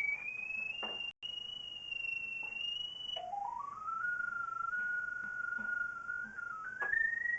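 Pipe locator receiver picking up the sewer camera's sonde: a single electronic tone that climbs in small steps as the signal strengthens, drops sharply about three seconds in, then steps up again.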